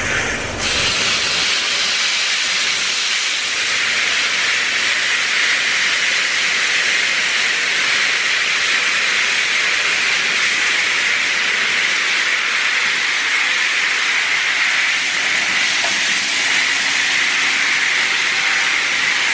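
Washworld High Velocity touchless in-bay car wash's high-pressure water jets spraying a car: a steady, loud hiss that comes up about half a second in and holds.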